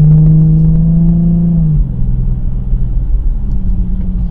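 Car engine and tyre rumble heard from inside a moving car's cabin. A steady engine note climbs slightly, then drops away about two seconds in, and a fainter engine note comes back near the end.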